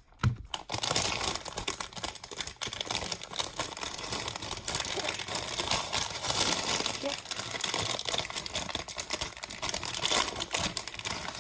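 A small Lego set being unboxed by hand: packaging crinkling and tearing, with a dense run of small clicks from loose plastic Lego pieces.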